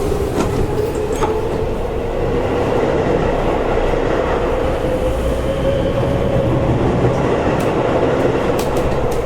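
Seibu 30000 series electric train heard from inside the passenger car while running: a steady rumble of wheels and track under a droning motor tone that rises slightly and settles back. A few sharp clicks from the wheels crossing rail joints come near the end.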